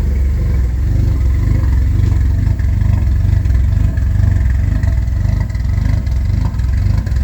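1988 Porsche 944 Turbo's turbocharged 2.5-litre four-cylinder engine idling steadily while it warms up after a cold start.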